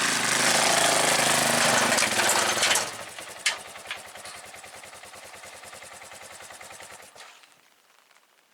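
Motorcycle engine revving hard for about three seconds, then dropping to a fast, even idle that cuts off about seven seconds in.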